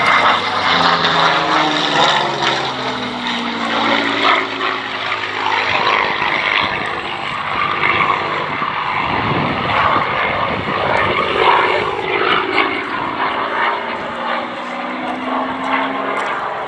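Merlin-engined Second World War propeller fighter flying a display pass. The engine drone drops in pitch as it goes by, then comes a loud rush of engine and propeller noise about halfway through as it passes close, and the pitch rises again near the end as it comes back round.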